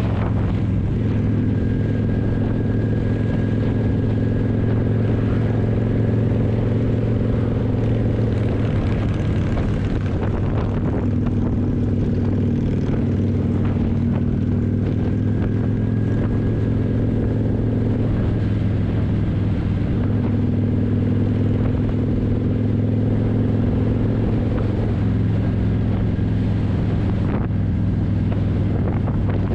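Kawasaki motorcycle engine running steadily while riding. Its note shifts slightly a few times as the speed changes.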